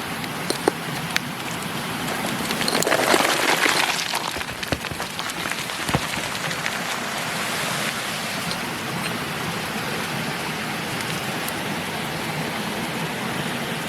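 Steady rush of a mountain creek, swelling louder for about a second around three seconds in, with a few sharp knocks of rock being handled, the clearest about six seconds in.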